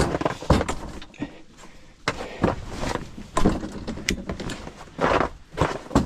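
An ice-fishing tent being set up by hand: a string of irregular knocks, clacks and scraping, rustling strokes as the frame and fabric are pulled out and locked into place.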